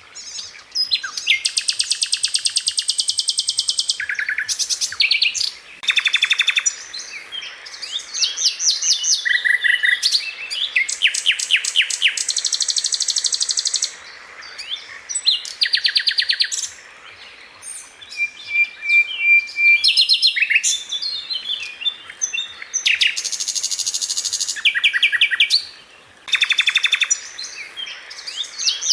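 Sikatan Londo flycatcher singing in fast, high-pitched rattling trills. The rapid-fire phrases come one after another with only brief pauses, each a quick run of notes.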